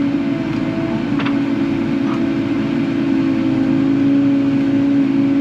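Kubota KX080 excavator's diesel engine running steadily under work, a constant hum with one strong steady tone. A faint click about a second in.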